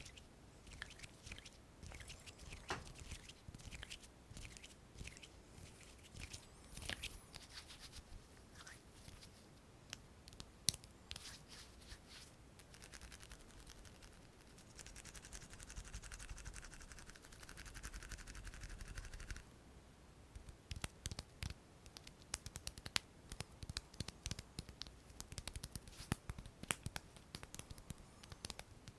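Hand sounds close to the microphone: scattered scratches and light taps, a few seconds of steady rubbing around the middle, then quick, dense finger taps and clicks through the last third.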